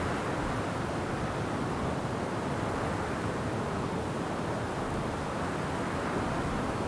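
Wind blowing through forest trees with rain falling: a steady rushing noise that swells slightly near the start and again near the end.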